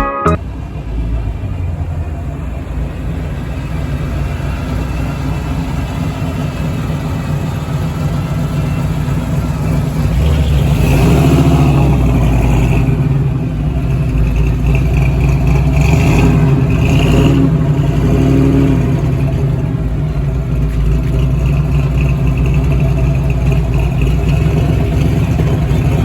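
Car engines running, with a louder stretch from about ten seconds in: engines revving or cars pulling past, rising and falling in pitch.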